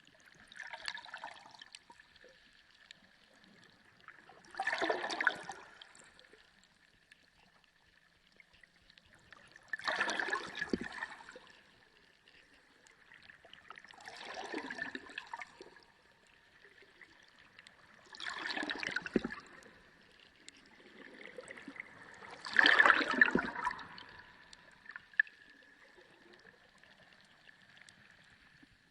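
Sea water heard underwater: a gurgling rush of water swells and fades six times, about every four to five seconds, over a faint steady high tone.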